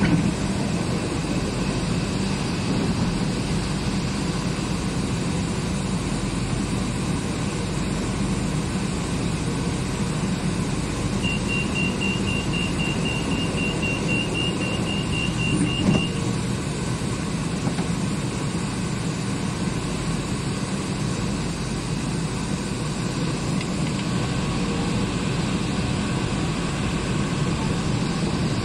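Steady rumble and hum inside an elevated electric train carriage. Near the middle comes a rapid high electronic beeping for about five seconds, the door-closing warning, ending in a thump as the doors shut, before the train pulls away.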